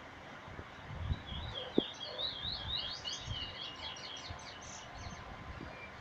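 Pet bird singing a twittering phrase of quick up-and-down notes that runs for about four seconds, starting about a second in and speeding into short rapid notes near its end. Low thumps and a sharp click sound underneath.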